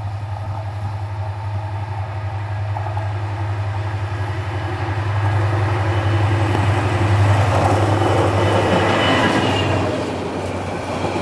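Diesel-electric locomotive hauling a passenger train approaches and passes at speed. The engine's deep drone grows louder, peaks about seven seconds in, then drops away and gives way to the rattle of the coaches' wheels on the rails near the end.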